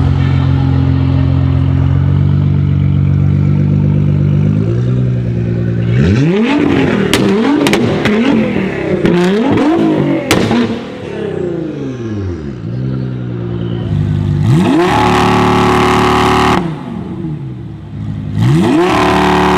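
A tuned performance car's engine revving hard while parked. It runs steadily at first, then gives about five quick throttle blips with sharp exhaust pops and cracks between them. Two long revs follow, each held flat at high revs for about two seconds before dropping.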